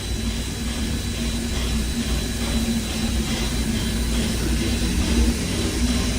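Steady low mechanical rumble with a constant hum, slowly growing louder.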